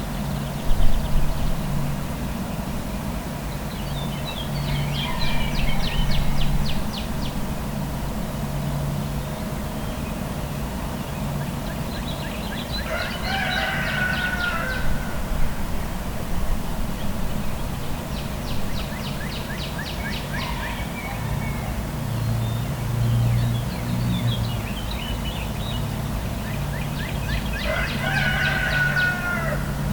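A rooster crows about twice, near the middle and again near the end, among other birds calling. A steady low traffic hum runs underneath.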